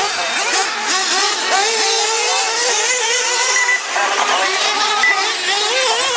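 Several radio-controlled monster trucks and truggies racing together, their small motors revving over one another with pitches rising and falling constantly.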